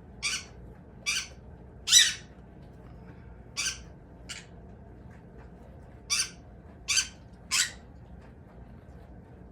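Pet bird squawking in about eight short calls, unevenly spaced, the third the loudest, with a pause of about two seconds midway.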